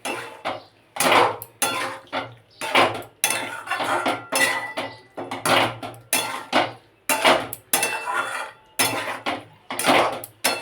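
Spatula scraping and stirring chicken masala in a metal kadai, in repeated strokes about one every two-thirds of a second: the chicken being stir-fried (kashano) with yogurt over a low flame.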